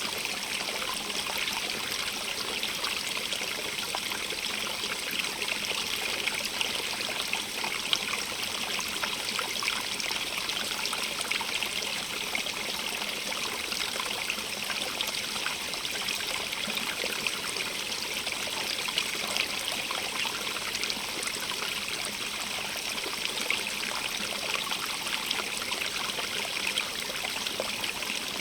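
Stream of running water, a steady even rush with many small splashes and trickles.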